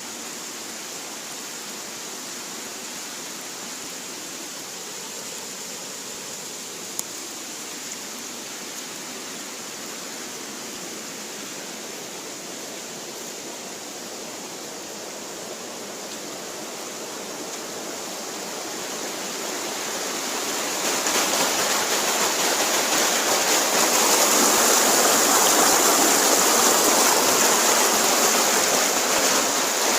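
Steady rush of flowing water that grows louder and brighter about two-thirds of the way through.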